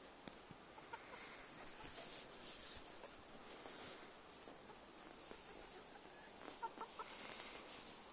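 Domestic chickens clucking softly, a few short clucks, most of them near the end, over faint rustling.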